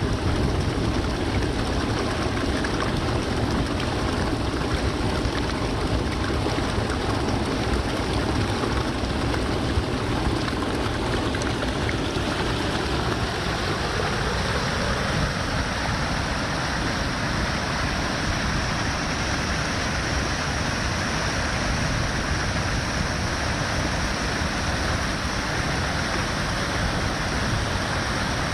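Haruru Falls, a waterfall, rushing steadily. About halfway through, the sound turns brighter and hissier, with less deep rumble.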